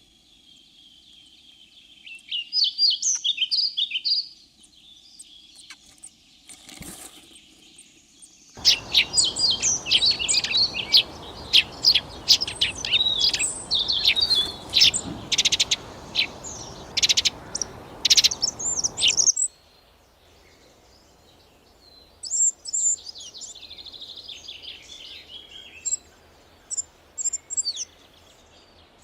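Birds chirping and singing in several bouts of short, high calls and trills. A steady hiss comes in suddenly about eight seconds in and cuts off suddenly some ten seconds later.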